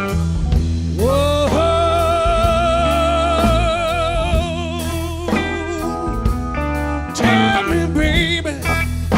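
Live blues-rock band playing an instrumental break over bass and drums. A lead line slides up into a long note about a second in and holds it with vibrato for about four seconds, then plays shorter bent notes near the end.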